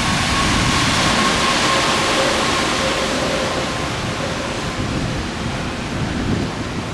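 Heavy rain hissing steadily, with a faint steady whine that fades out about halfway through.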